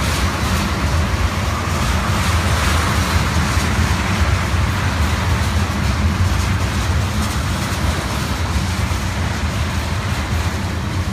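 Black tank cars of a CSX freight train rolling past close by: a steady rumble of wheels on the rails, loud and unbroken throughout.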